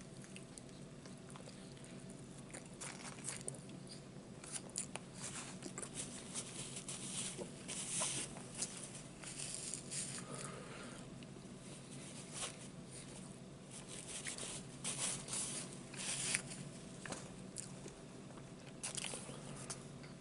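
Close-up eating sounds: a man biting and chewing a sandwich, with moist mouth clicks and smacks coming in irregular clusters.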